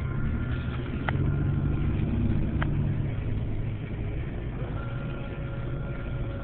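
Vehicle engine running with a steady low rumble, a little louder for a couple of seconds about one second in.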